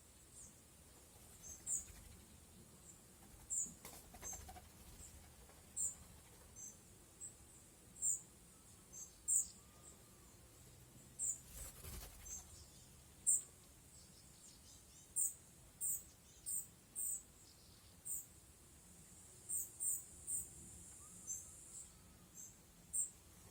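Birds chirping in the garden: short, very high, sharp chirps at irregular intervals, one or two a second, over faint background noise.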